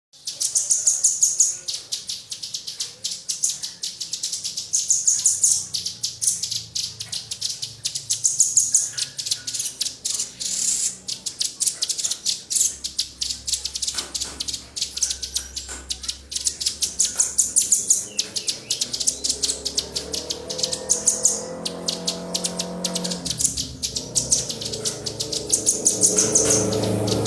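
Small songbirds chirping in rapid, high-pitched runs of notes, as in a recording of tutor song for training a caged songbird. In the second half a lower tone with several harmonics swells in beneath the chirps.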